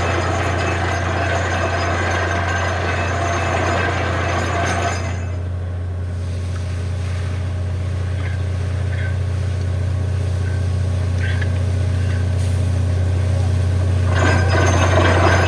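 Borewell drilling rig's engine running steadily with a deep hum. A loud rushing noise over it drops away about five seconds in and comes back near the end.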